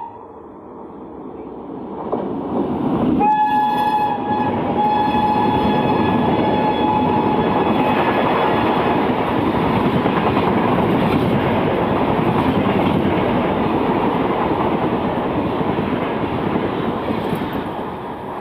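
Indian Railways express train passing through at speed, about 120 km/h. Its electric locomotive's horn sounds one long multi-note blast of about five seconds, starting about three seconds in. The loud rushing rattle of the coaches over the rails follows and eases off near the end.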